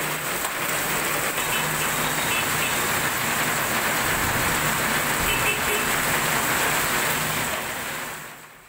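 Heavy rain pouring onto a flooded street, a steady hiss, with the low hum of a bus engine underneath as it drives through the downpour. The sound fades out near the end.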